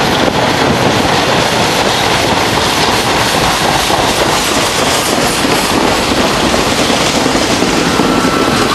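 Staten Island Railway train of R44 subway cars pulling into a station, its wheels running loudly and steadily on the rails as the cars pass close by. A thin high squeal comes in near the end.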